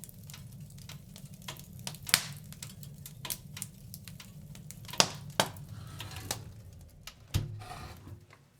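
Wood fire in a fireplace crackling, with irregular small ticks and a few sharp, loud pops over a steady low rumble. It grows quieter near the end.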